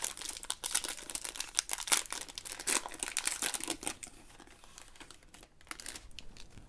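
Foil trading-card pack wrapper being torn open and crinkled: a dense crackling for about four seconds that then thins to a few scattered crinkles.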